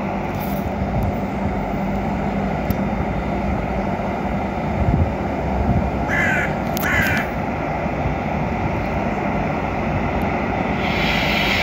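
Steady hum and rumble from a Koleje Mazowieckie electric multiple unit standing at the station platform. About six and seven seconds in, a bird gives two short, harsh cawing calls.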